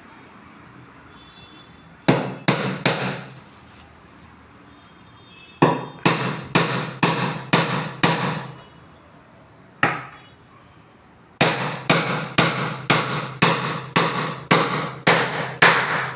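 Hammer blows driving a glued thin wooden strip (chip) into a wooden joint, in runs of quick strikes at about three a second: three, then about eight, a single blow, then about a dozen, each with a short ringing tail.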